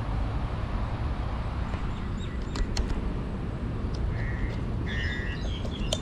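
Birds chirping in short calls in the second half, over a steady low rumble on the camera microphone, with a couple of light clicks about halfway.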